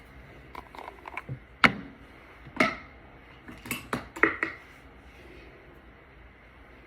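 Small hard makeup containers being handled: a string of sharp clicks and knocks, several louder taps as products are picked up, opened and set down on a hard surface, then quiet handling noise.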